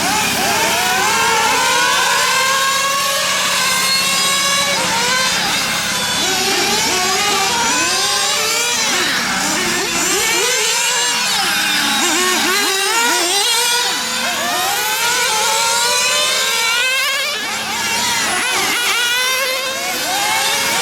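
Glow-fuel two-stroke engines of 1/8-scale nitro RC GT cars running laps, more than one at once. Their high-pitched whine rises on the straights and drops off into the corners, over and over, with the pitch lines overlapping.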